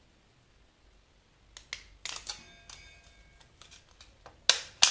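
Crackling and clicking handling noises of thin aluminium can sheet and two-sided tape being pressed together, with a louder sharp crackle near the end. About two seconds in, a faint held tone with several steady pitches sounds for about a second.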